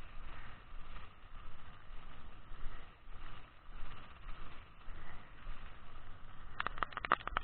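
Wind and heavy rain noise on a camera microphone, gusting up and down, with a quick run of sharp taps near the end.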